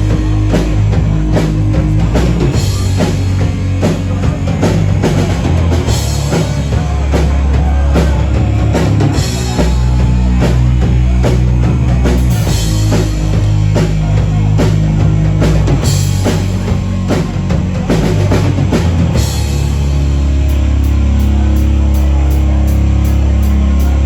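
Rock band playing live: drum kit with bass and electric guitar, the drums hitting steadily. Near the end the drumming drops back and a low held chord rings on under a fast, even ticking.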